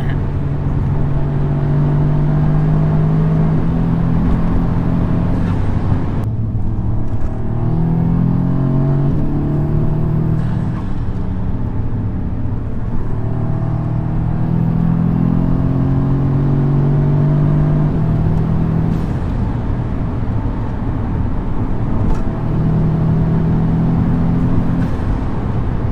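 Audi S3 8V's turbocharged 2.0-litre four-cylinder, stage-1 remapped with an induction kit, running under way. Its note holds steady in stretches and rises and falls in pitch several times as the car pulls.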